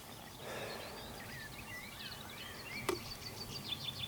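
Faint birdsong, short chirping calls over low outdoor background noise, with one sharp click about three seconds in.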